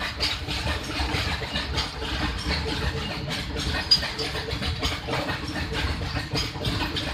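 Train running: a steady low rumble with irregular clatter throughout and one sharp knock about four seconds in.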